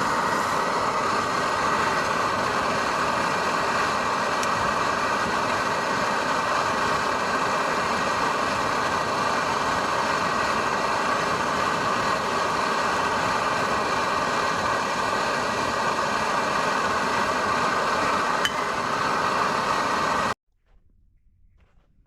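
A steady, dense hissing noise with a faint hum in it, unchanging, that cuts off abruptly near the end.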